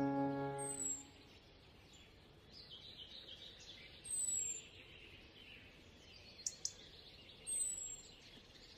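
Background music ends about a second in, leaving faint outdoor ambience. A bird gives a short, high, falling chirp about every three seconds, and two quick clicks come near the end.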